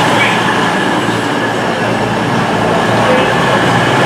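Class 220 Voyager diesel-electric multiple unit arriving at the platform: a steady, loud rumble of its underfloor diesel engines and wheels on the rails.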